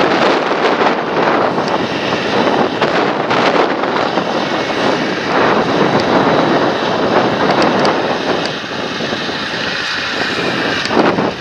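Large John Deere farm tractor running steadily as it works the field, mixed with wind buffeting the microphone.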